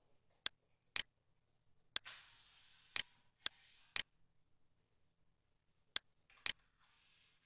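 Computer mouse button clicks: about eight sharp clicks, mostly in pairs half a second apart, with a faint hiss between some of them.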